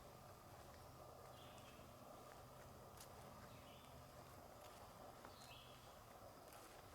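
Faint woodland ambience: a few light footsteps on leaf litter and brief, faint, high bird notes, three of them spaced over several seconds.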